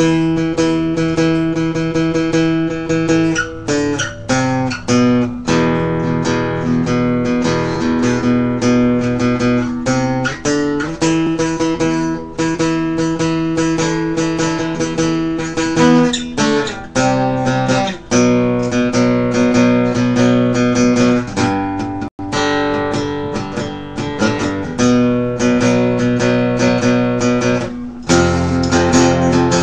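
Acoustic guitar playing music, a run of plucked and strummed chords, with a momentary break about 22 seconds in.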